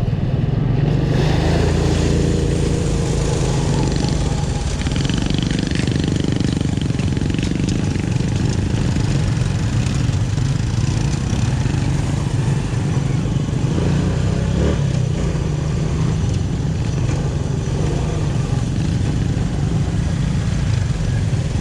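Motorcycle engine running steadily on the move, with a constant rushing noise over it.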